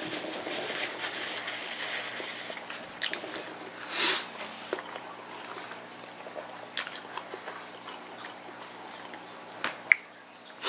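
A person chewing a large mouthful of hot dog fast, with wet clicking mouth noises and a sharp breath about four seconds in. A faint steady hum sits underneath.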